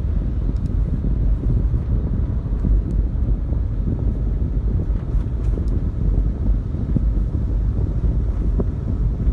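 Wind buffeting the microphone, a steady rough low rumble.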